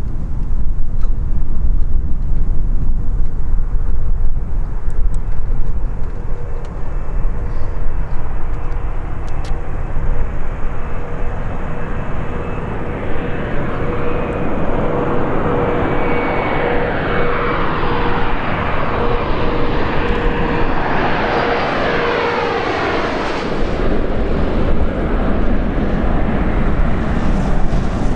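Bombardier CRJ-900 regional jet flying low over on final approach, its two General Electric CF34 turbofans giving a steady whine that grows louder. As it passes, the sound sweeps in pitch, then turns into a broad jet rumble about two thirds of the way through. Wind buffets the microphone throughout.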